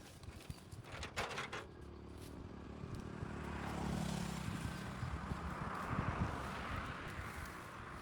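A motor vehicle passing by, its engine and road noise building to a peak midway and then fading. A few scraping clicks come about a second in.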